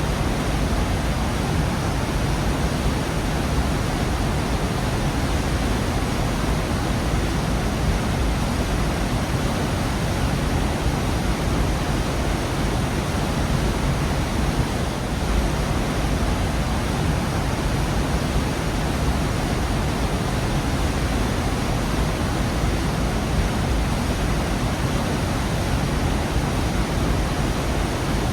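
Waterfall in a rocky gorge, its falling water making a steady, unbroken rush with a heavy low rumble.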